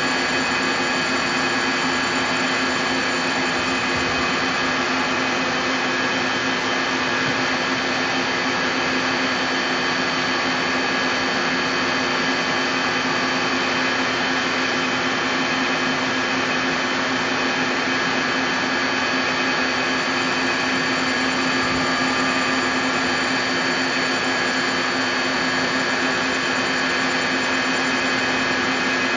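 Puma 350 CNC lathe running, a steady machine hum and whir with several constant tones and no breaks.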